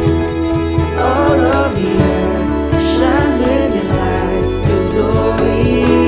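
Christian worship music with a band and a sung vocal line, over held chords and a steady beat.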